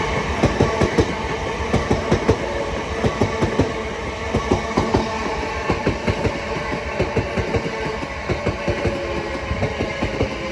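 A pair of Southeastern Class 376 Electrostar electric multiple units passing through the station. The wheels clatter over the rail joints in quick, irregular clicks over a steady running hum. The sound eases slightly toward the end as the rear unit goes by.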